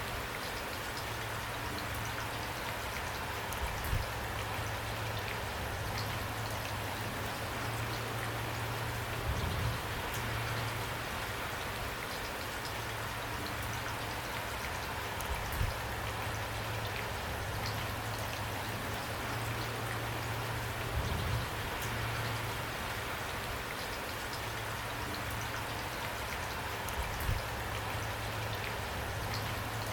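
Steady rain falling, an even hiss of drops on a surface, with a brief low thump every five or six seconds.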